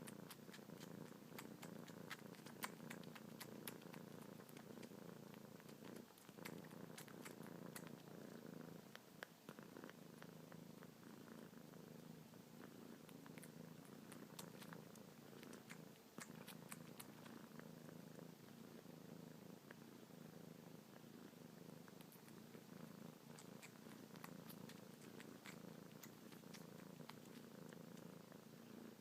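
Kitten purring steadily and non-stop while suckling on fingertips, with many small wet clicks from the sucking.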